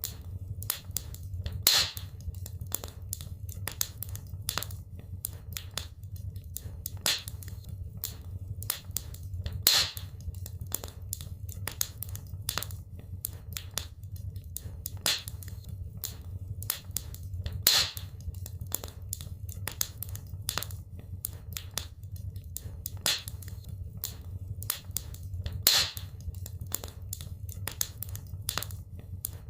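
Wood fire crackling in a fireplace: a constant scatter of small sharp crackles over a steady low rumble, with a louder pop about every eight seconds.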